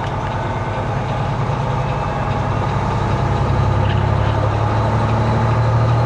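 Semi-truck's diesel engine running, a steady low hum heard from inside the cab that grows slowly louder as the truck gets under way.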